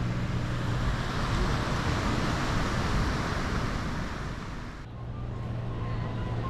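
Outdoor ambience: a rushing noise swells and fades, like a passing vehicle or surf, over a low steady engine hum. About five seconds in the rush stops abruptly and the hum returns.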